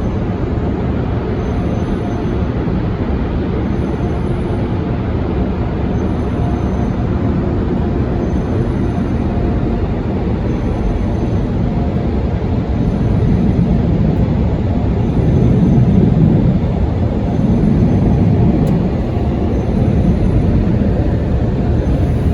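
PDQ LaserWash 360 touchless car wash running, heard from inside the car: a loud, steady rushing noise that swells for a few seconds past the middle, with a faint tone repeating about every two seconds.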